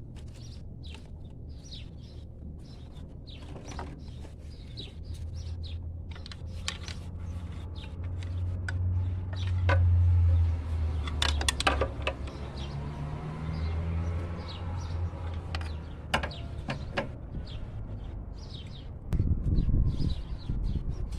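Small birds chirping over and over above a low steady rumble that swells about halfway through. A few sharp metallic clicks and knocks come from tools on the engine, with louder handling noise near the end.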